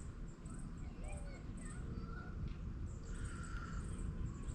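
Outdoor ambience of birds chirping with short calls, over insects giving high chirps about twice a second and a steady low rumble.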